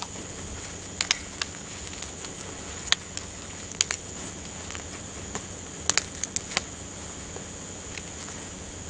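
Campfire crackling: sharp, irregular pops and snaps of burning wood, a cluster of them about six seconds in, over a steady high-pitched background hiss.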